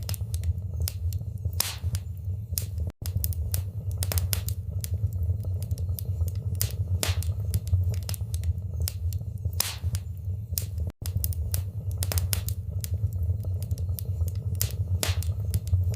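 Wood fire in a fireplace crackling: frequent sharp, irregular pops and snaps over a steady low rumble. The sound cuts out for an instant twice, about three seconds in and again near eleven seconds.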